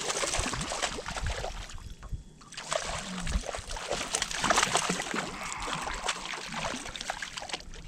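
Water splashing and sloshing in two stretches, with a short lull about two seconds in.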